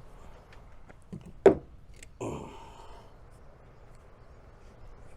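Garden hose fittings and a plastic hose adapter being handled and connected. A light knock is followed by a sharp knock about a second and a half in, then a short rasping noise lasting under a second.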